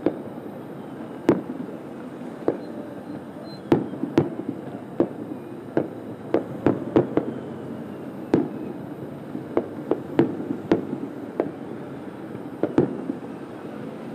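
Aerial fireworks shells bursting about a kilometre away: a string of sharp booms at irregular intervals, some in quick pairs or clusters, over a steady background noise.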